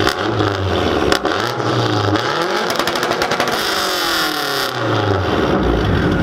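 Car engine revved once from idle. The pitch climbs for about two seconds, a rushing hiss comes near the top, and it then falls back to idle.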